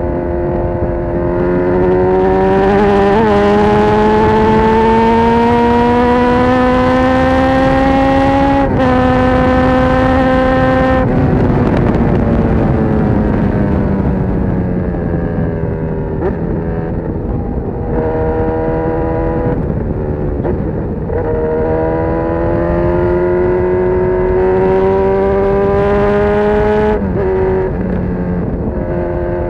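Honda CB1000R's inline-four engine through a full GP Lougan RS Evolution exhaust, pulling under throttle. The pitch climbs steadily for several seconds, breaks briefly, then falls away as the throttle closes, holds, and climbs again before dropping off near the end.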